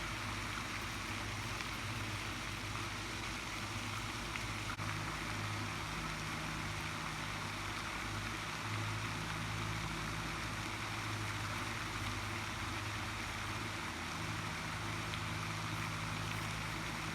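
Steady outdoor background noise with a low, even hum and no distinct events.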